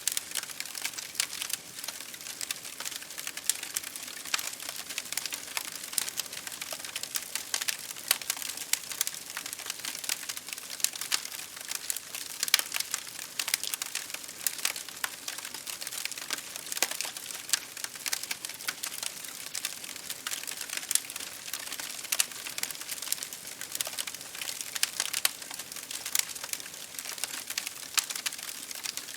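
Campfire crackling steadily, with dense irregular sharp crackles and pops over a soft hiss.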